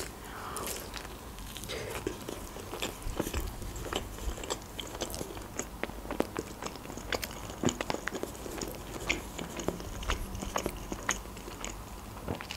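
A bite into a cheese-filled Adjarian khachapuri at the start, then chewing close to the microphone, with many small, irregular wet mouth clicks.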